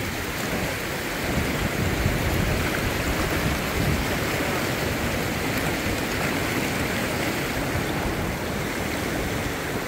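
Fast, deep mountain creek rushing in a steady, even roar of water.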